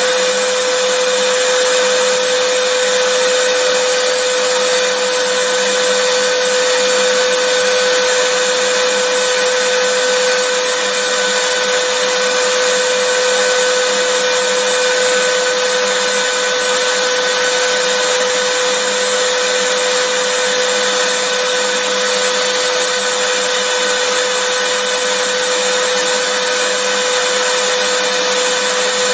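Vacuum cleaner motor running steadily, a continuous loud whirring rush of air with a constant whine, no change in speed.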